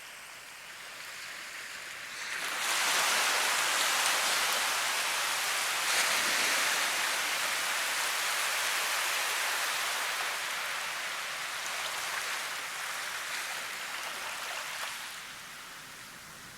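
Steady rushing-water hiss, without any pitched tone, that comes in sharply about two seconds in and fades down near the end.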